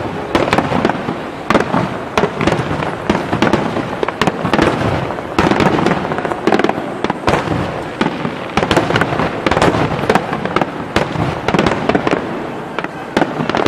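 Aerial fireworks display bursting without pause: a rapid, irregular run of sharp bangs with dense crackling between them.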